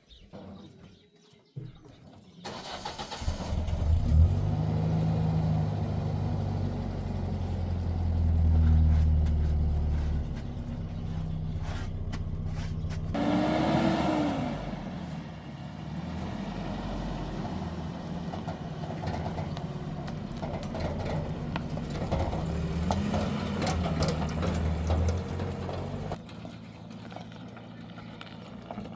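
An engine starts about two seconds in and runs unevenly for over twenty seconds, its pitch shifting several times. It then falls away near the end.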